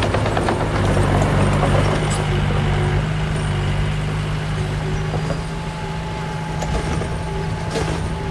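Diesel engine of heavy earthmoving machinery running steadily under load, with scattered metallic clanks and rattles.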